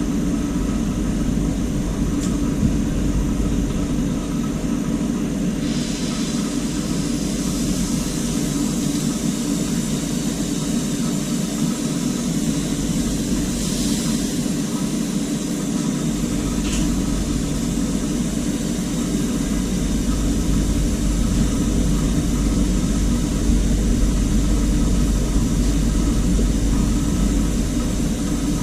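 A steady, loud machine-like drone with a hiss that rises in the upper range about six seconds in, and a few faint ticks.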